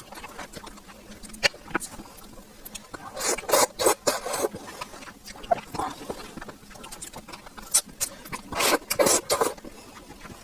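Close-miked eating sounds: wet chewing and mouth clicks, louder in two stretches about three seconds and eight seconds in.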